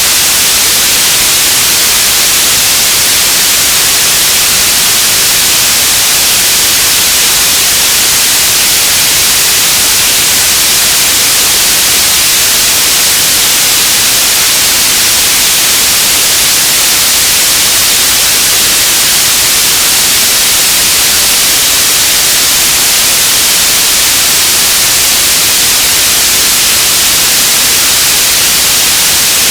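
Loud, steady radio static, an even hiss strongest in the high frequencies, with no breaks or changes.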